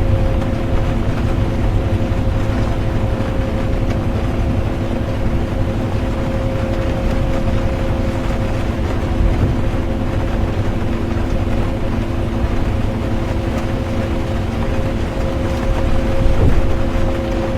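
Bus interior during a drive: a steady low engine and road rumble with a constant hum, under a wash of noise from rain.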